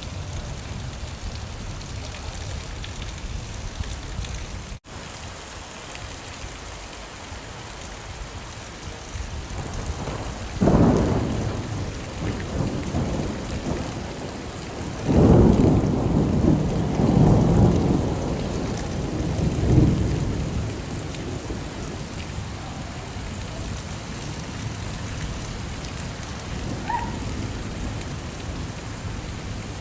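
Steady rain falling, with thunder rumbling twice: a sudden peal about eleven seconds in, then a longer rolling peal from about fifteen to twenty seconds. The sound cuts out for an instant about five seconds in.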